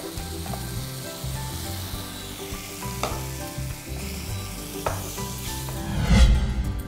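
Onion-tomato masala sizzling in a kadai with a wooden spatula stirring it, and two sharp knocks along the way. Near the end a loud low whoosh swells up as the sizzling fades.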